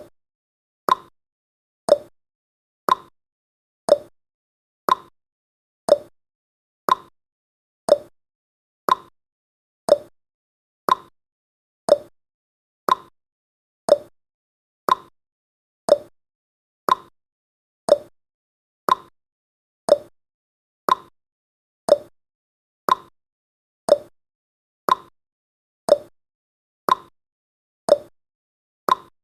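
Countdown timer's clock-tick sound effect: a short, sharp tick exactly once a second, each dying away quickly, with nothing between ticks.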